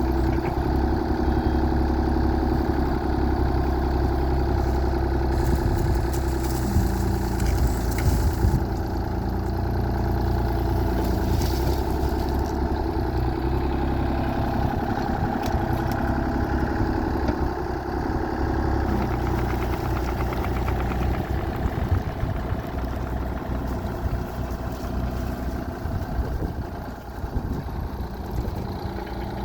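Mini excavator's diesel engine running steadily, with a noisier stretch of added rattle about six to twelve seconds in.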